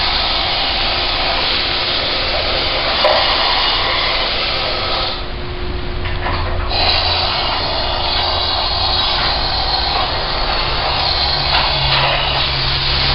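Cavity-wax spray wand hissing as it sprays rust-proofing wax through a 360-degree nozzle inside new body panels. The spraying stops for a moment about five seconds in, then resumes.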